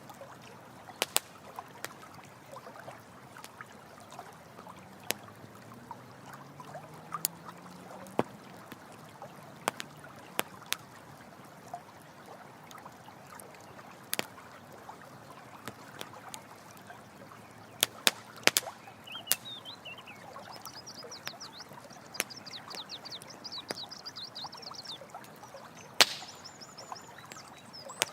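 Campfire crackling with sharp, irregular pops over the steady rush of running water. In the last third a high, rapid trill from a bird or insect runs for several seconds.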